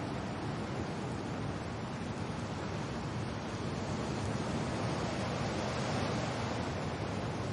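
Steady rain with wind: an even, unbroken wash of noise.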